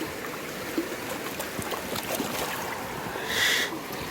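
Steady rush of a rain-swollen river, with scattered small knocks and clicks and a brief high-pitched sound about three seconds in.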